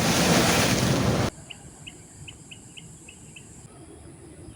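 Ocean surf with wind buffeting the microphone, cutting off abruptly about a second in. Then a quiet background in which a small bird chirps about seven times in quick succession, roughly four a second.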